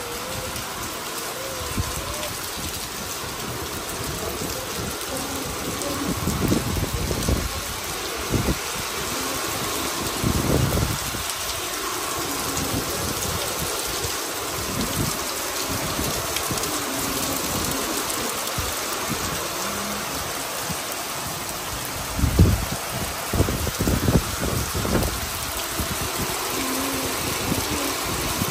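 Heavy rain pouring steadily, an even hiss of downpour, with a few short low rumbles now and then.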